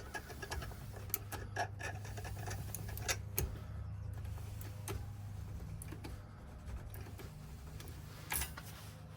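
Small irregular metal clicks and ticks of a blank key being worked and twisted in a Ford 5-pin ignition lock cylinder to raise impression marks from the pins. A steady low hum runs underneath.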